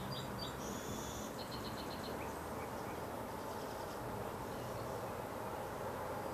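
Small birds chirping and twittering, with a quick run of high chirps about a second and a half in, over steady outdoor background noise.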